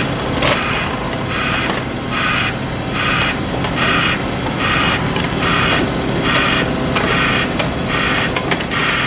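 A reversing alarm on roadworks plant pulsing regularly, about one beep every 0.8 seconds, over the steady running of a diesel engine.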